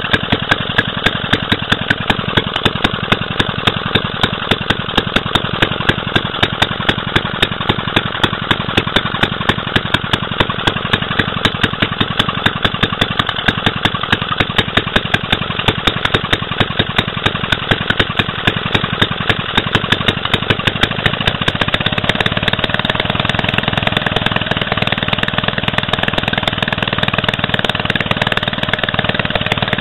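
Clinton 900 3 hp small engine running, with a sharp, regular firing beat. About two-thirds of the way through it gets louder and the beat blends into a more even sound.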